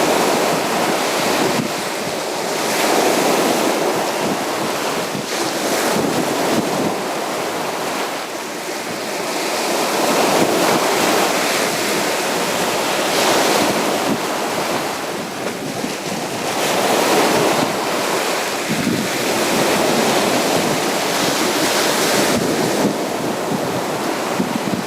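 Sea waves breaking and washing onto a beach, the surf swelling and falling every few seconds.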